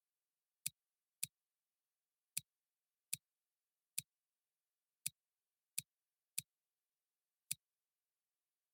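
Nine short, sharp clicks at uneven intervals, roughly one every second or less, with dead silence between them.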